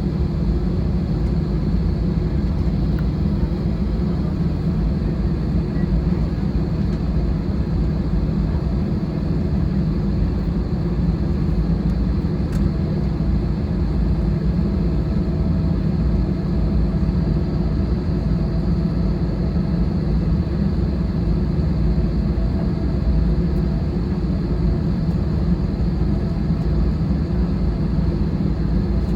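Steady low rumble inside the cabin of an Airbus A320-216 on the ground before takeoff, from its engines and air conditioning, with a faint steady hum above it.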